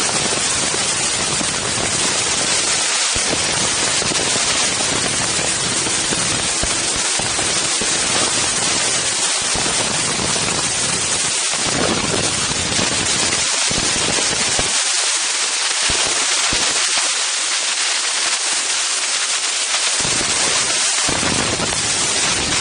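Strong wind buffeting the Insta360 One X camera's microphones: a loud, steady hiss with crackling, rumbling gusts. The low rumble eases off for several seconds past the middle, then returns.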